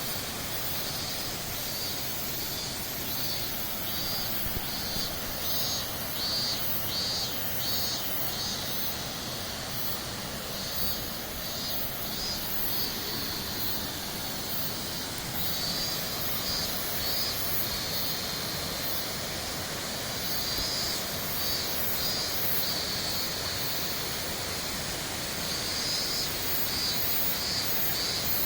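Minoo Falls pouring steadily, a constant rush of falling water. A high, pulsing trill comes and goes above it several times.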